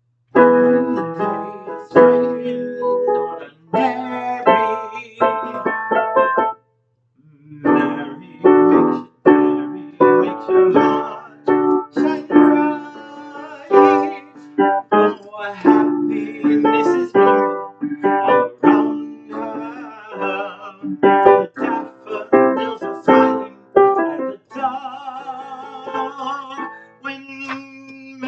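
Piano played in chords, stopping briefly about six and a half seconds in and then going on.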